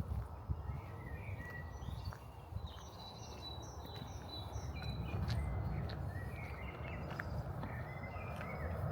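Footsteps on a path, with small birds chirping at intervals over a steady low rumble.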